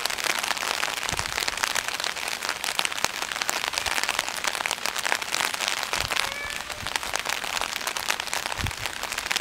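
Rain falling, a dense, steady patter of drops, with a few dull low bumps.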